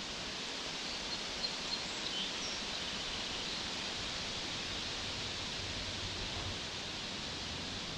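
Steady outdoor background hiss with a few faint bird chirps, and a couple of small clicks about one and a half seconds in.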